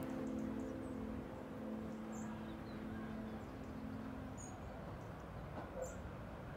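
Soft background music fading out over the first four seconds, leaving a low outdoor hiss with a few short, high-pitched bird chirps.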